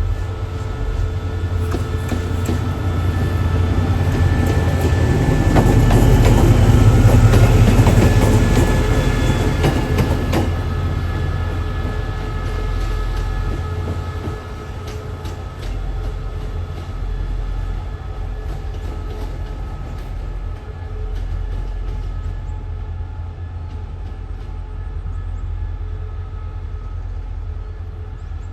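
A train passing on the line, wheels clicking over rail joints under a steady low engine hum. It grows louder to a peak about seven seconds in, then eases to a lower, steady level.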